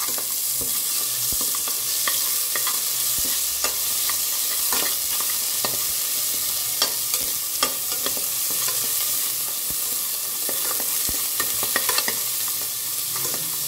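Ginger-garlic paste and turmeric sizzling in sesame oil in a pressure cooker, sautéed until their raw smell cooks off. A slotted spoon scrapes and clicks against the pot again and again as it stirs, over a steady sizzle.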